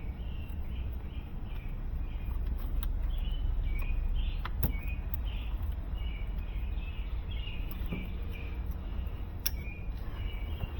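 Birds chirping repeatedly over a steady low rumble, with a couple of sharp clicks, one about halfway through and one near the end.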